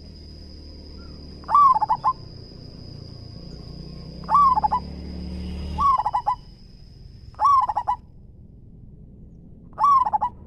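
Zebra dove cooing: five short phrases a couple of seconds apart, each a quick falling note followed by a rapid stutter of coos. A faint steady high whine runs behind it.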